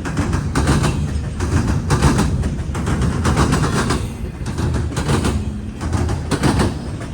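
Freight-car wheels of a CSX intermodal train pounding over a railroad diamond crossing. Clusters of sharp bangs come about once a second as each set of wheels slams across the crossing's gaps, over a steady low rumble of the rolling train.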